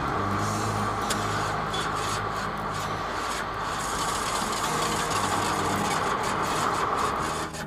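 Motorcycle engine running steadily while under way, with a dense, even rushing noise over it; the sound drops away near the end.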